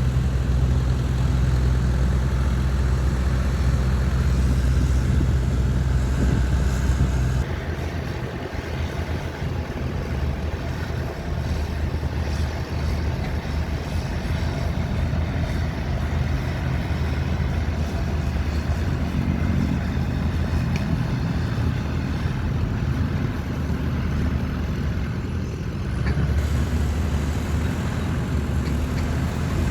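Heavy diesel engine of earthmoving equipment running steadily with a low hum. It drops back in level about a quarter of the way through and picks up again near the end.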